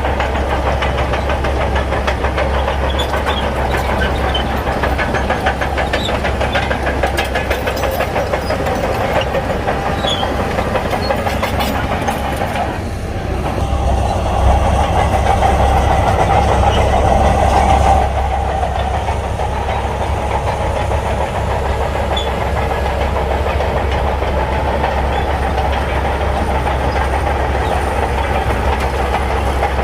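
Shantui bulldozer's diesel engine running under load, with rattling clicks in the first half. The engine grows louder for about four seconds past the middle, then settles back.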